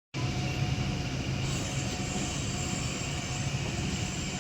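Steady mechanical running noise: a low hum with a faint steady whine over an even hiss.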